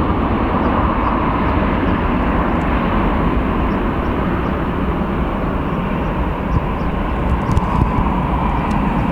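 Jet engines of a Ryanair Boeing 737 on a wet takeoff: a steady, loud roar.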